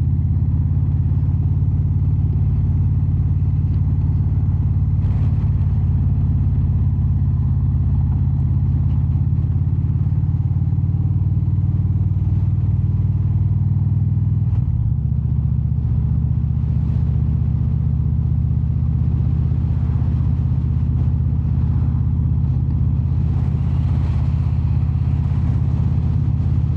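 Indian V-twin cruiser motorcycle engine running steadily at road speed, heard from the rider's seat, with road and wind noise over it. The engine note shifts briefly about halfway through.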